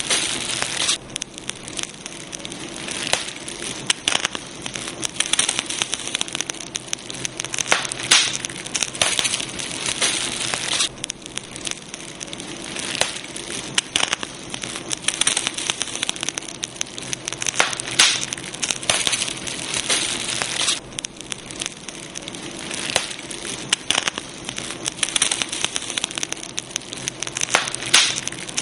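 Campfire crackling: burning wood snapping and popping in an irregular stream of sharp crackles over a soft hiss.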